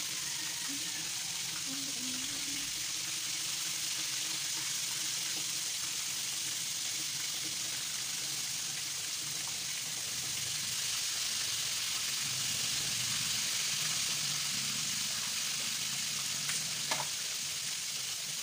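Breaded chicken pieces deep-frying in hot oil in a pan: a steady sizzle, turned now and then with metal tongs. There is a single sharp click near the end.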